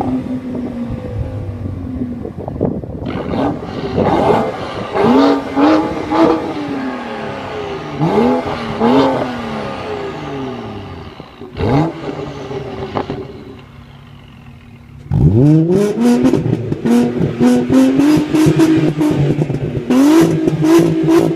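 A car engine with an aftermarket sport exhaust is free-revved in a series of quick blips, the pitch rising and falling each time. It goes quieter for a moment, then an engine starts with a sharp rising flare at about three-quarters of the way in and runs on at a raised idle with further revs.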